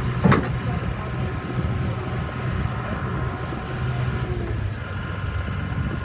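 An engine idling steadily, with a single sharp knock about a third of a second in.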